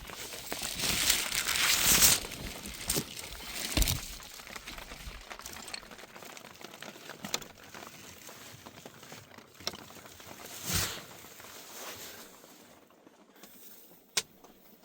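Rustling, crinkling handling noise, loudest about one to two seconds in, followed by scattered clicks and knocks, fading toward the end.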